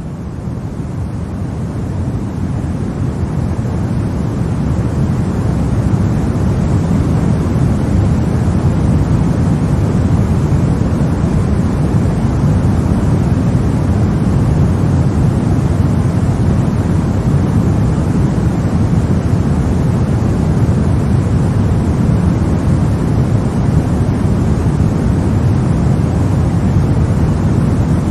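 Steady white noise for lulling a baby to sleep: an even, deep rushing hiss, heaviest in the low end, fading in over the first few seconds and then holding level.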